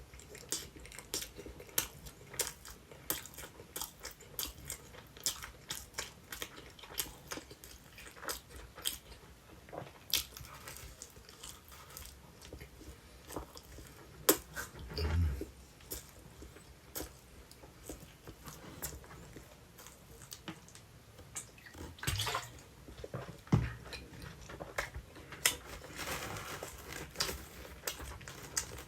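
Close-miked chewing and biting of sweet potato pizza: a steady run of sharp crunches and mouth clicks, with a few louder bites.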